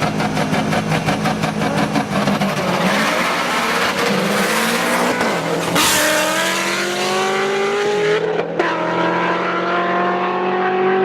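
Tuned car engine held at steady revs with a fast pulsing note, then accelerating hard with rising pitch. It breaks off briefly about eight seconds in, as in a gear change, and climbs again from a lower pitch.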